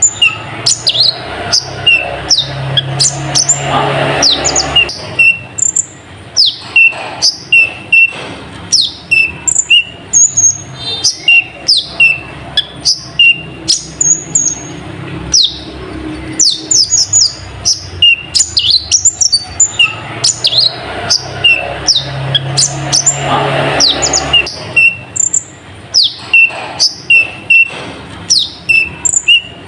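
Kolibri ninja sunbird singing a fast run of high, sharp chirps and quick falling whistled notes, a song the title says is filled with mimicked nightjar (cabak) calls. The same stretch of song repeats about twenty seconds in.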